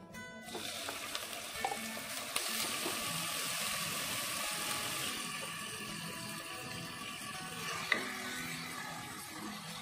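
Minced aromatics dropped into hot oil in a pot, sizzling loudly from about half a second in while being stirred with a wooden spatula. A few sharp knocks of the spatula against the pot, the clearest near the end.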